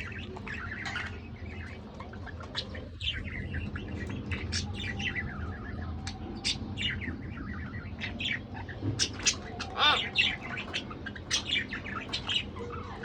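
A pair of budgerigars chattering and warbling, with many short chirps and a few sharper calls, the loudest about ten seconds in.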